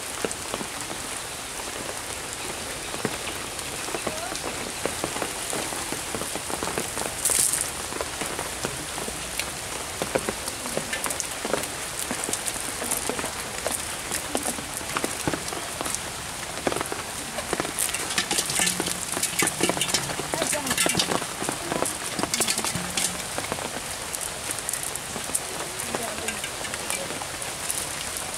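Steady rain falling on a pond and the muddy bank, a dense patter of drops with a spell of sharper taps about two-thirds of the way through.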